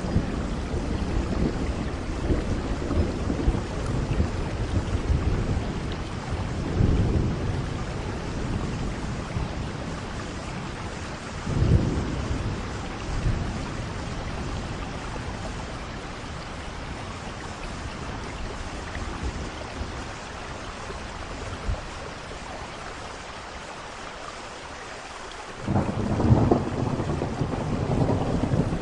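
Steady rain with thunder rolling in waves: one rumble about 7 seconds in and a sharper clap about 12 seconds in. After a quieter stretch, a loud rumble of thunder breaks in near the end.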